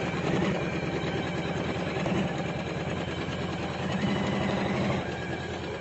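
Usha Janome Memory Craft computerized embroidery machine stitching out a design, its needle running in a rapid, steady clatter.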